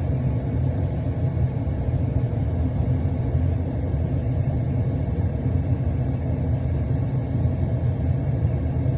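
Steady low rumble of a stopped diesel locomotive idling, even and unchanging.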